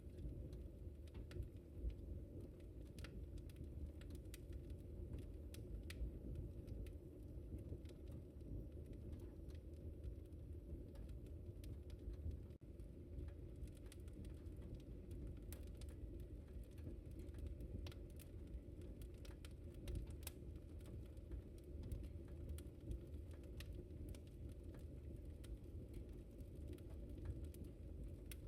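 Wood fire crackling in a fireplace: irregular small pops and snaps over a low, steady rumble of the burning fire.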